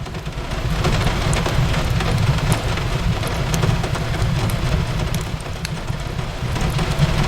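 Steady rain falling on a window with a deep low rumble, mixed with a fireplace crackling in scattered small pops.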